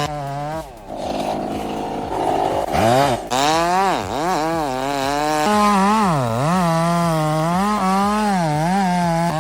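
Two-stroke chainsaw running at high revs in a cut, its pitch dipping and recovering again and again as it bogs under load. There is a lower, rougher stretch about a second in before it revs back up.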